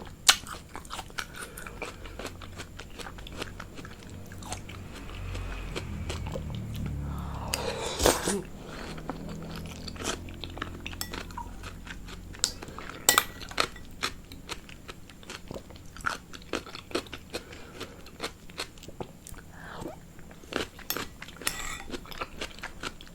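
Close-miked chewing and crunching of food, with many irregular wet clicks of biting and mouth sounds and a louder swell about eight seconds in.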